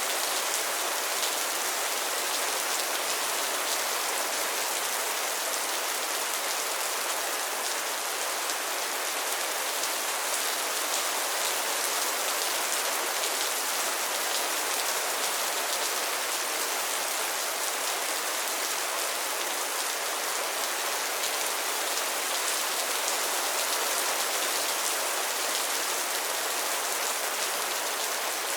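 Steady rain falling on a pond's water and lily pads: a dense, even patter of many drops with no let-up.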